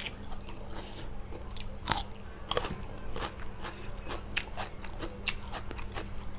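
A person chewing a mouthful of blanched-shrimp laab, with irregular crunches and wet clicks of the mouth.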